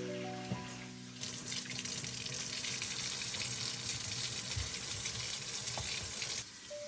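Kitchen tap running into a sink for about five seconds, starting about a second in and stopping suddenly near the end. Soft background music notes play at the start.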